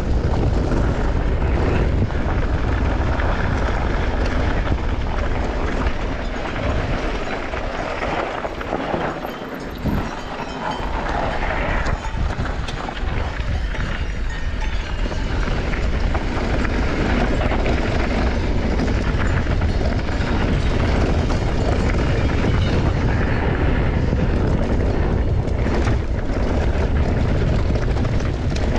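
Mountain bike running down a bike-park trail: tyres rolling over rough dirt and the bike rattling over bumps, with heavy wind noise on the microphone. The noise eases off briefly about a third of the way in.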